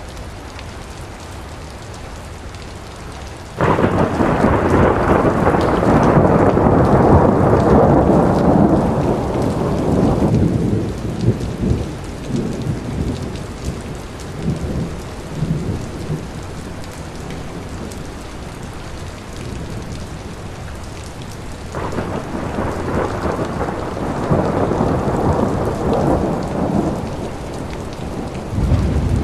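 Thunderstorm: rain falling steadily with rolls of thunder. One thunderclap starts suddenly about four seconds in and rumbles for several seconds before dying away, another rumble builds a little over twenty seconds in, and a fresh low rumble begins near the end.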